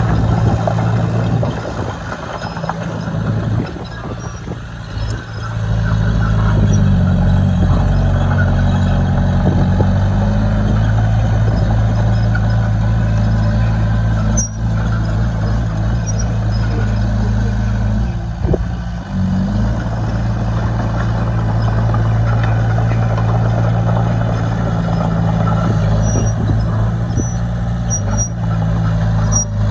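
Diesel engine of heavy earthmoving machinery running hard and steadily. It eases off a couple of seconds in, picks up again about six seconds in, and dips briefly once more past the middle.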